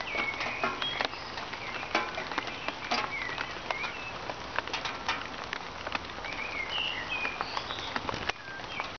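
Light rain with sharp, irregular ticks of raindrops striking a galvanised metal watering can and wet paving. Songbirds chirp and whistle over it.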